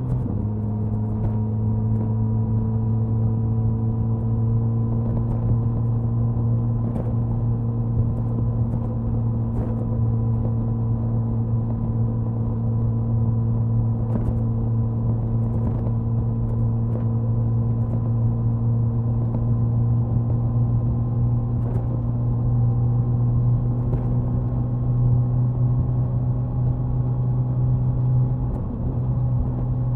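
Suzuki Hayabusa's inline-four exhaust at highway cruise, recorded near the tail with wind noise. The engine note drops a step right at the start, as in an upshift, then holds steady and rises slowly, easing briefly near the end.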